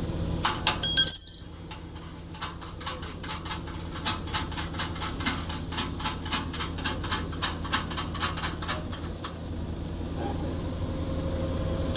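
Metal clinking and clicking from tool work on machine parts: a few ringing clinks in the first second and a half, then a long run of quick, even ticks, about four a second, for about seven seconds, over a low steady hum.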